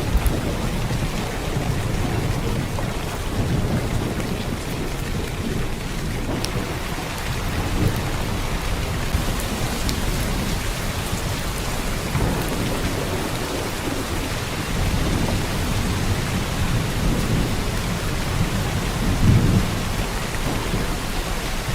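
Heavy downpour of rain, a steady dense hiss, with low rumbling swells underneath that grow stronger near the end.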